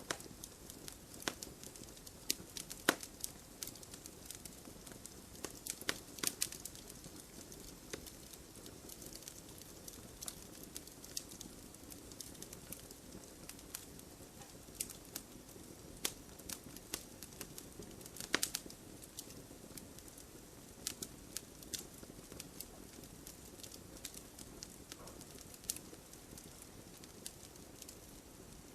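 Wood fire crackling in an open fireplace: a soft steady hiss with irregular sharp pops and snaps, a few louder ones now and then.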